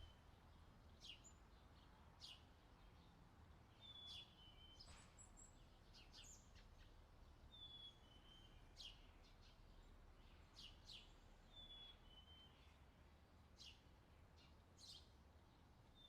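Faint summer outdoor ambience: a bird repeats a clear two-note whistle, the second note lower, about every four seconds, with other birds' short chirps between, over a low steady rumble.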